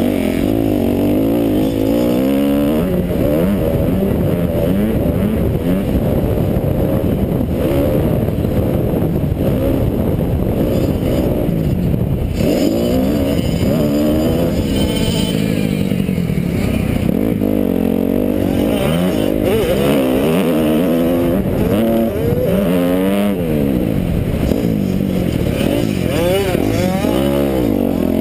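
Kawasaki KX250F four-stroke single-cylinder motocross engine revving up and falling back over and over as it accelerates, shifts and backs off around the track. It is heard close up from a helmet-mounted camera.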